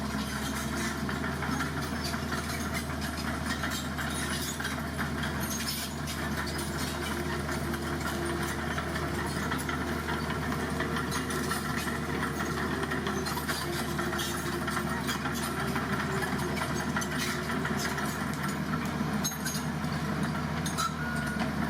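Heavy diesel engine of roadworks machinery running steadily at idle, with scattered clicks and knocks.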